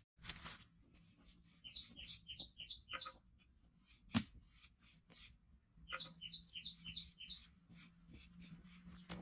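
A bird singing two phrases about four seconds apart, each a quick run of about six high chirps. A single dull knock just after four seconds in is the loudest sound, with scattered small clicks and scrapes.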